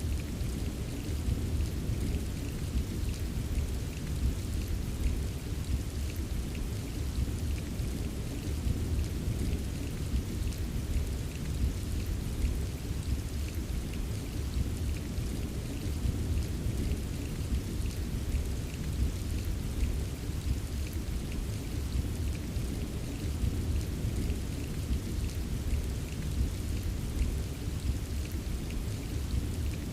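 Steady rain with many small drops tapping, over a constant deep rumble. There are no distinct thunderclaps or swells; the sound stays even throughout.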